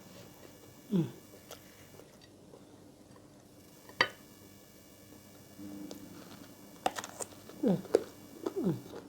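Close-miked chewing of a mouthful of white rice, with scattered soft mouth clicks. Three short sounds fall in pitch, about a second in and twice near the end.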